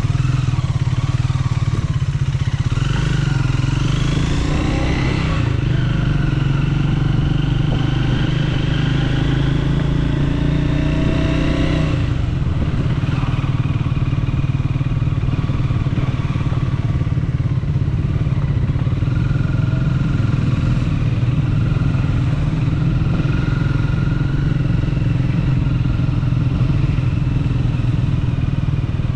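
Triumph Speed 400's single-cylinder engine running under way, rising in pitch as it accelerates over the first twelve seconds. About twelve seconds in the note changes suddenly, as at a gear change, and then runs on steadier.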